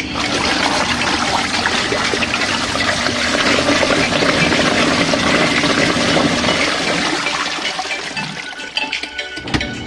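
Water rushing and splashing in a compact RV washing machine, easing off about eight seconds in, with a low thud near the end.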